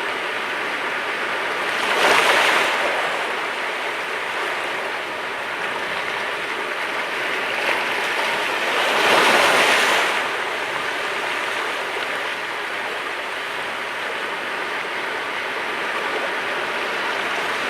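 Sea waves breaking on the shore, a continuous wash of surf with two louder waves crashing, about two seconds in and again around nine to ten seconds in.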